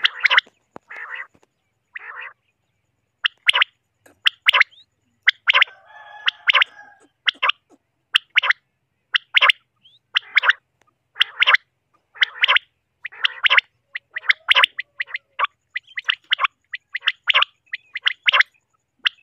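Common quail calling over and over: short, sharp notes in quick groups, about one group a second.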